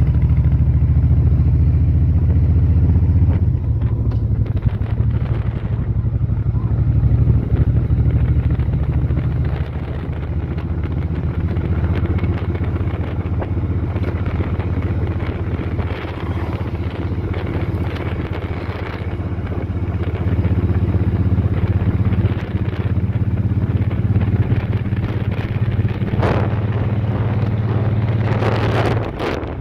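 Motorcycle engine running steadily while riding, its pitch stepping down a few seconds in and dropping again near the end.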